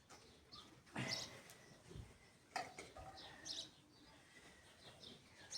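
Faint, scattered bird chirps, with a couple of soft knocks about a second in and again a little before the middle.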